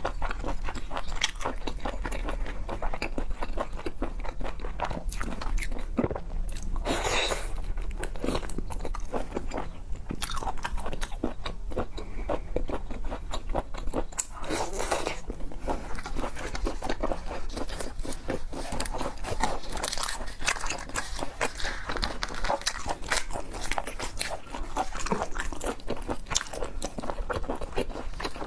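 Close-miked eating of seafood: continuous biting, chewing and crunching with many small wet clicks. There are two longer, noisier stretches about 7 and 15 seconds in.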